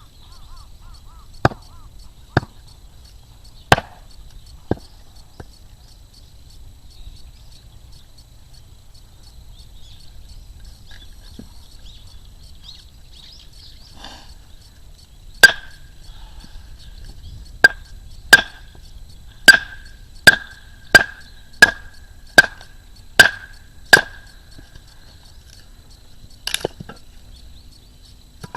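Sharp striking blows: a few spaced hits near the start, then about ten in quick succession, roughly one every 0.7 s, each with a short ringing note.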